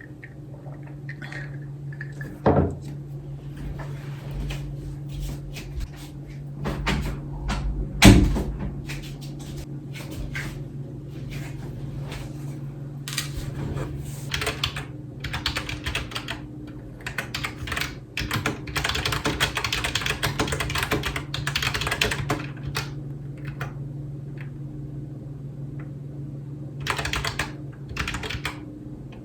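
Typing on a computer keyboard: runs of quick key clicks that come in bursts and pauses, with two louder knocks early on. A steady low hum runs underneath.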